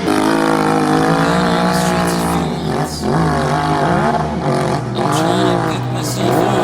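Enduro motorcycle engines revving, their pitch rising and falling in repeated surges, over a steady lower engine note.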